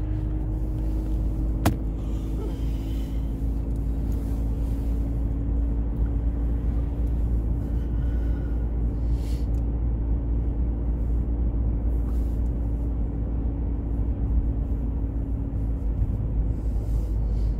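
Car driving along a road, heard from inside the cabin: a steady low rumble of engine and tyre noise with a faint steady hum, and one sharp click about two seconds in.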